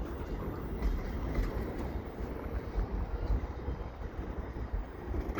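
Double-stack freight train rolling past slowly, a steady low rumble of wheels on the rails with a few faint clicks.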